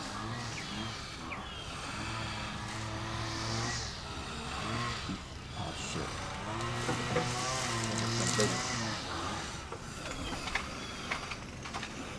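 Zero-turn mower engine running, its pitch holding steady, then dipping and rising several times as the revs change.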